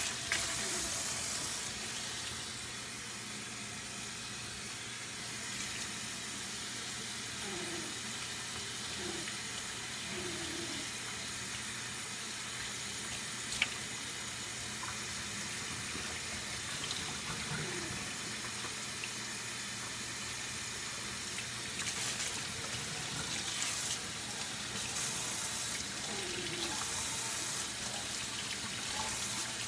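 Warm water running steadily from a tap into a sink, splashing as hair is wet for shampooing. A single sharp click sounds about a third of the way through.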